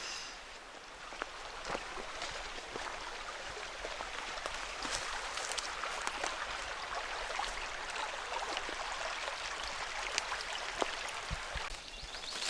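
A creek running with a steady hiss, with scattered light clicks and crackles over it.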